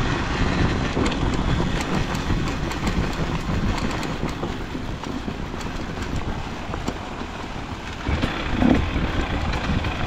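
KTM EXC 300 TPI two-stroke enduro motorcycle engine running at low revs, rough and uneven, with scattered clicks and knocks, and a brief rise about eight and a half seconds in.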